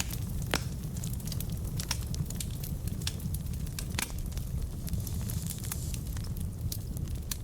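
Log fire burning in a fireplace, crackling with frequent irregular sharp pops over a steady low rumble; a few pops stand out louder, about half a second in and about four seconds in.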